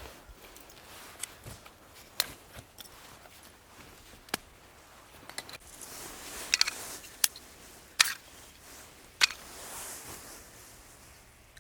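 Irregular sharp clicks and snaps, a dozen or so, with a few louder ones in the second half and two short stretches of light hiss.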